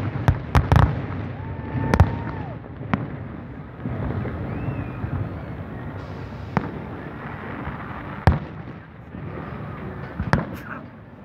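Aerial firework shells bursting: a quick cluster of sharp bangs in the first second, then single bangs every second or two, with a double bang near the end.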